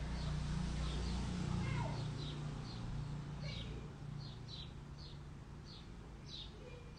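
Small birds chirping, short high calls repeating about twice a second, over a low steady rumble that is strongest in the first couple of seconds.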